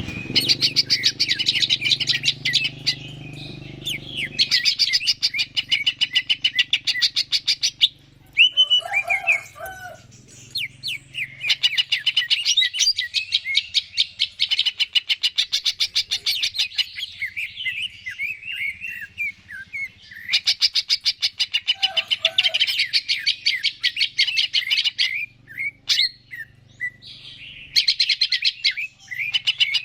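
Green leafbird (cucak ijo) singing in long, rapid runs of repeated high notes, broken by short pauses, with a few lower, rougher calls in between.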